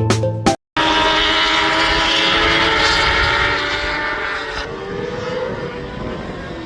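Music cuts off under a second in, then racing motorcycle engines run at high revs, several engine notes rising and falling in pitch at once. The engine sound eases off somewhat about halfway through.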